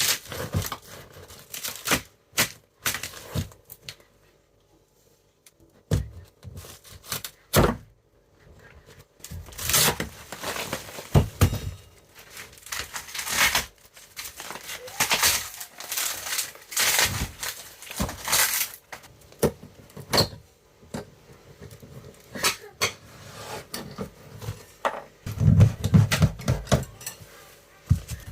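Floor demolition work on rotten, wet boards and oriented strand board: irregular knocks and thuds, with stretches of scraping and tearing, and a heavier run of low thuds near the end.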